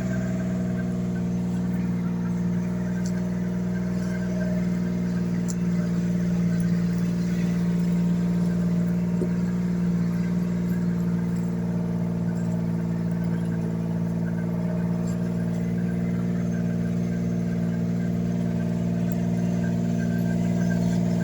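A motor vehicle's engine idling steadily, a constant low hum that holds the same pitch throughout.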